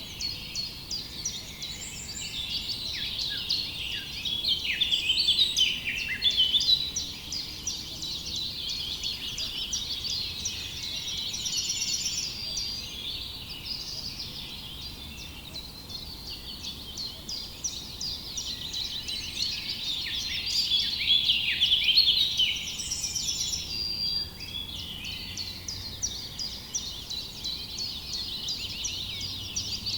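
Many small birds chirping and trilling at once in a dense, continuous chorus of quick overlapping notes, swelling louder twice, a few seconds in and again around the middle.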